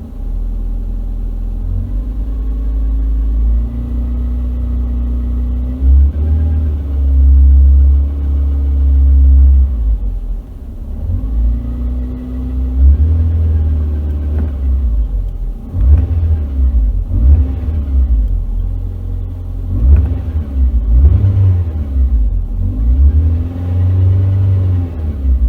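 Peugeot 106 engine running and being revved. The pitch rises and falls several times, with shorter revs in quick succession in the second half. The owner posted it as a strange noise from the car.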